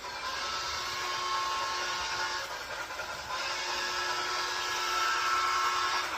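Train whistle sounding two long blasts, each a steady chord with a breathy hiss and a short gap between them.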